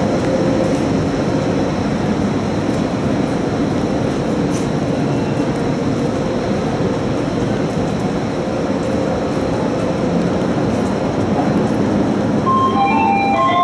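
Steady mechanical rumble of trains standing at the platforms. Near the end, a station public-address chime plays a few notes stepping down in pitch.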